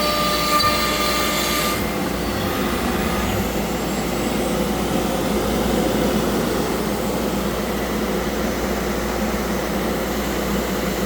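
Altmill CNC router running during a milling pass, with a steady, even rushing noise. A high whine on top of it stops about two seconds in.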